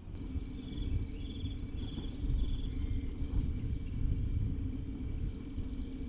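Outdoor ambience: a steady low rumble with a faint hum underneath a rapid, even high-pitched chirping, about five chirps a second.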